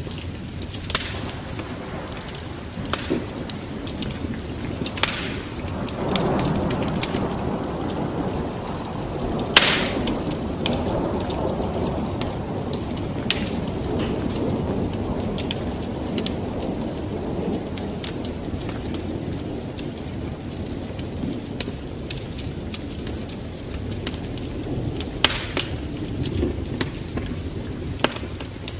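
Wood fire in a fireplace crackling, with sharp irregular pops over a steady low rumble that swells for about ten seconds near the middle.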